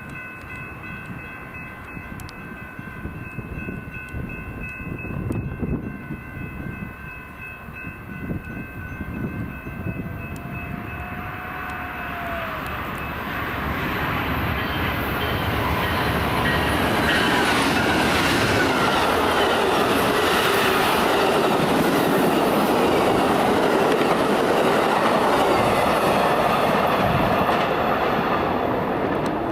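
A train approaching and passing close by, its noise building from about halfway and loudest through the last ten seconds. Several steady high tones ring through the first part.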